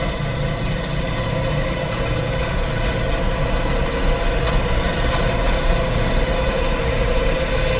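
A machine's engine running steadily at a constant speed, with a steady hum over a low rumble.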